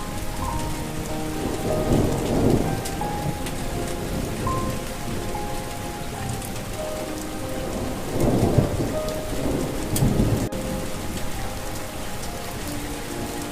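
Steady rain falling, with thunder rumbling twice, about two seconds in and again from about eight to ten seconds in. A soft melody of held notes plays quietly underneath.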